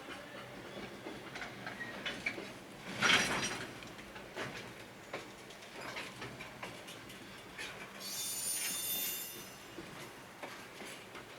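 Freight train of Koki container wagons rolling slowly into the station: wheels knocking irregularly over rail joints and points, with a louder clank about three seconds in and a brief high wheel squeal about eight seconds in.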